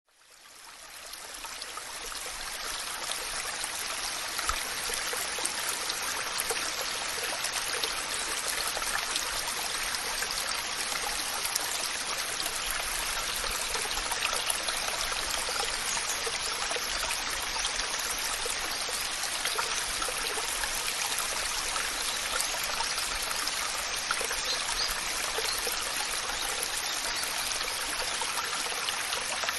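Waterfall: a steady rush of falling water, mostly bright hiss with little deep rumble, fading in over the first couple of seconds.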